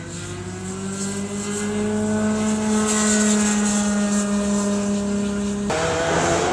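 Go-kart engine at full throttle, its pitch rising for the first couple of seconds and then holding at high revs. Near the end the note drops abruptly and turns rougher.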